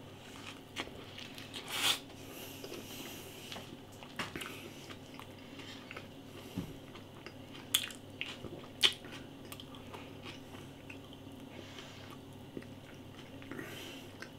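A man biting into a McChicken BLT chicken sandwich and chewing it with his mouth close to the microphone: soft crunching and wet mouth noises, with a few sharper clicks scattered through.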